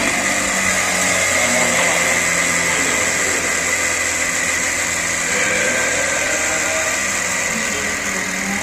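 Lamborghini Aventador SV's 6.5-litre V12 idling steadily, just after being started.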